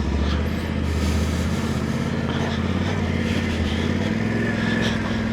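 Motorcycle engine running steadily at a low, even pitch, its tone shifting slightly about four seconds in.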